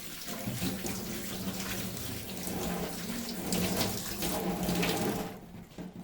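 Kittens eating a lickable Churu cat treat: a wet, crackly run of lapping and smacking, with a steady low hum underneath, stopping shortly before the end.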